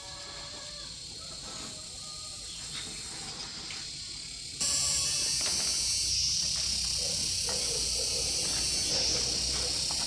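Insects shrilling: a steady high-pitched drone with faint chirps and clicks, which suddenly gets much louder a little under halfway through.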